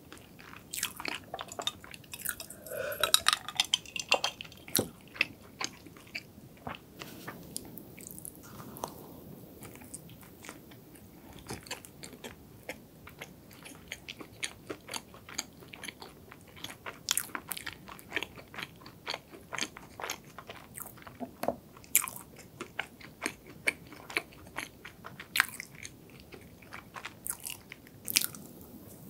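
Close-miked chewing of a chocolate-topped filled donut: soft, moist mouth sounds with many short wet clicks throughout.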